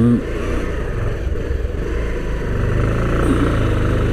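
Motorcycle engine running on the move, its low rumble growing louder about two and a half seconds in.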